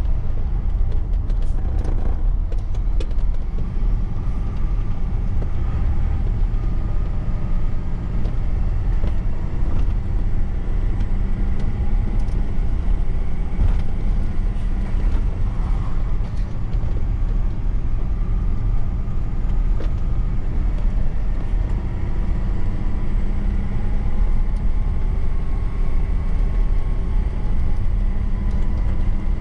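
Truck engine running steadily while driving, a strong low rumble with road noise and faint whining tones that drift slowly up and down in pitch. A few light clicks or rattles, about two seconds in and again near the middle.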